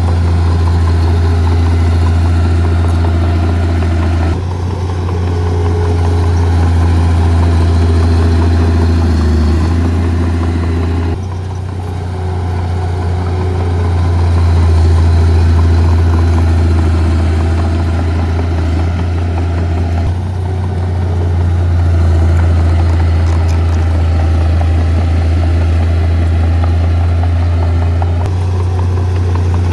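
Diesel engines of heavy earthmoving machinery running, with a steady low drone; the engine sound steps up and down abruptly a few times.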